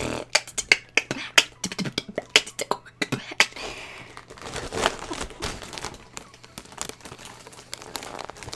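Beatboxing: a fast run of sharp mouth-made clicks and percussive hits for about the first three and a half seconds, then sparser, softer beats.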